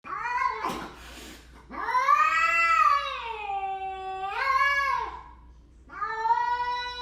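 A cat yowling in long, drawn-out meows: a short call at the start, a long call of about three seconds that rises and then falls in pitch, and another long call starting near the end.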